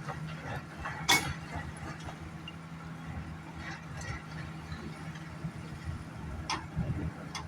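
Heavy diesel engine of a mining excavator and dump truck running steadily with a low hum. There is a sharp knock about a second in and a smaller one near the end.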